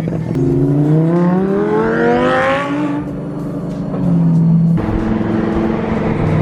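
A car engine accelerating hard, its pitch climbing for about two seconds before the revs drop away as the throttle is lifted, then running on at steadier revs.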